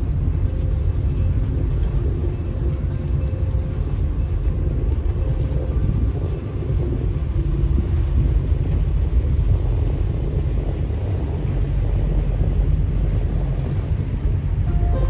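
Chao Phraya tourist boat's engine running steadily under way, a constant low rumble with faint droning tones above it.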